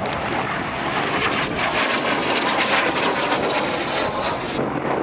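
Aero L-29 Delfín jet trainer's single turbojet engine running at power as it gets airborne: a steady rushing noise that grows a little louder around the middle.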